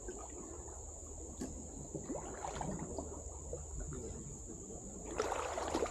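Steady high-pitched drone of forest insects, with a voice briefly near the end.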